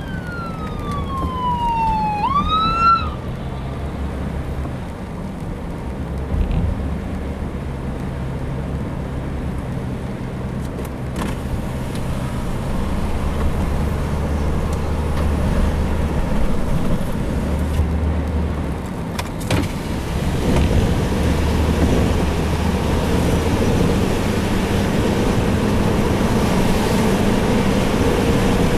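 A siren wailing briefly in the first three seconds, its pitch falling and then sweeping back up. Under it is the steady rumble of a moving vehicle with wind and road noise, growing louder toward the end.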